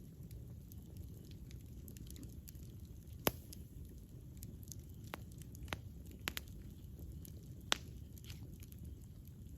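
Campfire burning with a low steady rumble and sharp, scattered pops and crackles of the wood, the loudest about three seconds in and again near eight seconds.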